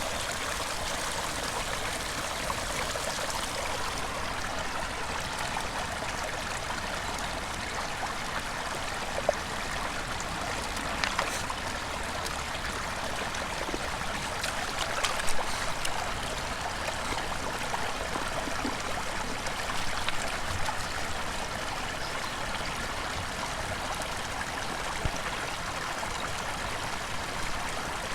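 Running water rushing steadily, with a few faint clicks partway through.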